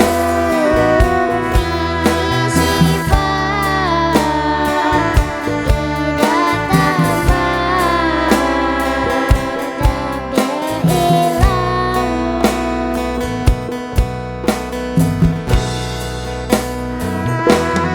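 Live acoustic sholawat music: plucked guitar chords and a drum beat under a melody that glides and wavers.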